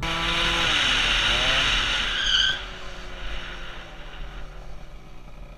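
Car tyres screeching in a skid, a loud hiss with a shrill squeal that cuts off abruptly about two and a half seconds in, followed by quieter engine and road noise.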